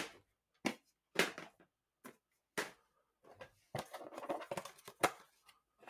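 Plastic VHS tape cases being opened and closed: a series of separate sharp snaps and clicks with silent gaps between them, and a quick flurry of smaller clacks and rattling about four seconds in.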